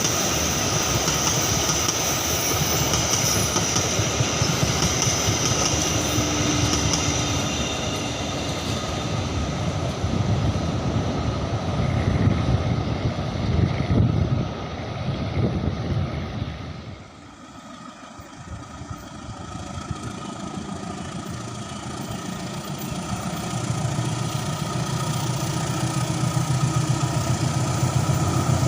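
Train running past, a steady rumble of wheels and engine that drops off suddenly about two-thirds of the way through; a low engine hum builds again near the end.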